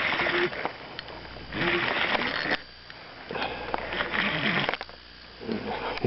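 A person breathing heavily: four loud, hissy breaths about a second and a half apart.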